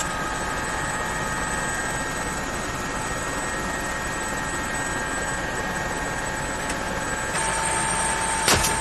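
Helicopter running steadily: a broad rushing noise with a high, steady whine. About seven seconds in, the whine abruptly jumps to a different pitch, and a single sharp bang comes just before the end.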